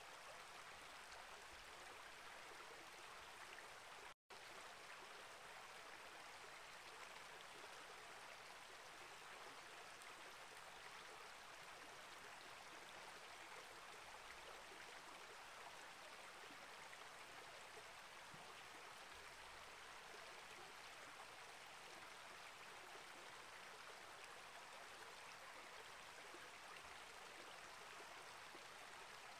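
Small rainforest creek flowing, a faint, steady rush of water, broken by a split-second gap of silence about four seconds in.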